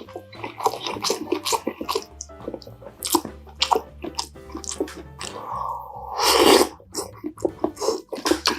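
Close-up eating sounds: quick chewing clicks and crackles, with a longer slurp about five seconds in that is the loudest sound.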